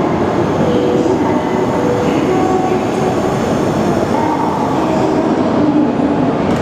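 Tohoku Shinkansen train moving past the platform: a loud, steady rush of running noise with brief faint squealing tones.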